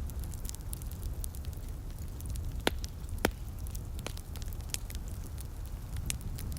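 Wood fire crackling in a fireplace, with scattered small snaps and two louder pops near the middle, over a steady low rumble.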